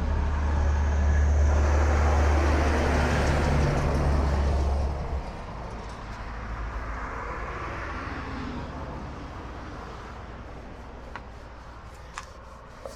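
Steady low rumble of a motor vehicle that drops away about five seconds in, leaving a fading hiss, with a few light clicks near the end.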